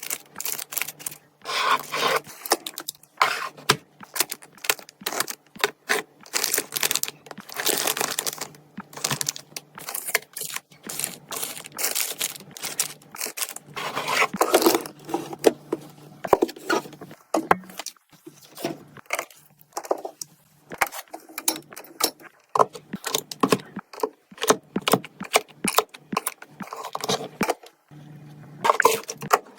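Food containers and packaging handled while restocking a fridge: a dense run of clicks, knocks and clinks as items are set down and moved, with crinkly rustles of packaging, over a faint steady hum.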